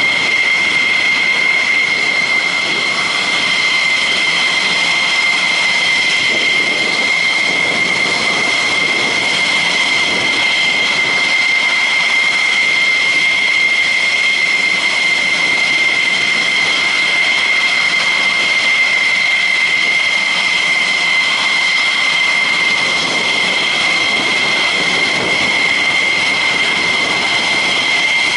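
Jet engines running at idle: a steady high-pitched turbine whine, two strong tones over a rushing hiss, unchanging throughout.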